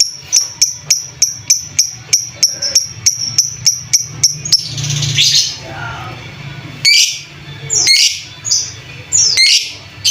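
Lovebird chattering: a fast run of short, high chirps, about four or five a second, for the first four and a half seconds, then a handful of longer, harsher calls about a second apart. It is a bait call of the kind played to a sluggish lovebird to rouse it into singing.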